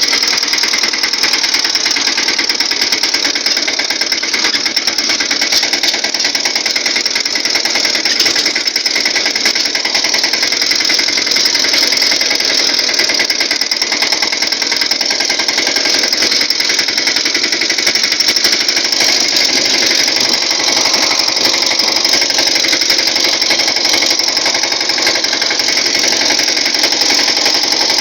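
Tractor diesel engine running steadily, heard from on board, a rapid even clatter with no change in speed.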